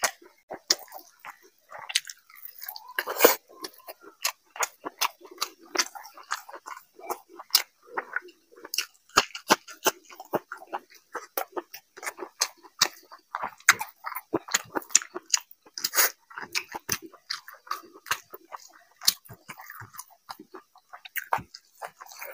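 Close-miked chewing of a mouthful of rice and chicken: a dense, irregular run of wet smacks and mouth clicks, several a second.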